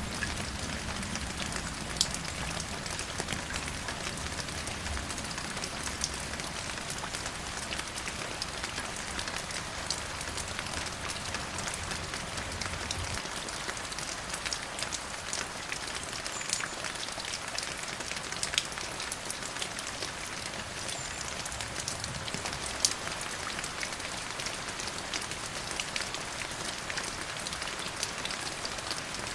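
Steady rain falling on a surface: an even hiss dotted with the sharp ticks of single drops landing close by. A low rumble underneath stops abruptly less than halfway through.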